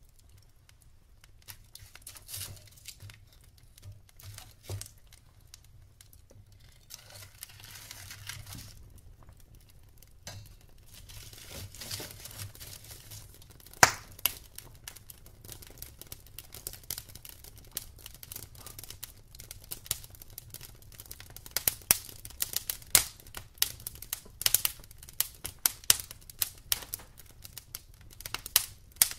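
Wood fire in a fireplace crackling, with irregular sharp pops that come thicker and louder in the second half. A soft hiss rises twice in the first half.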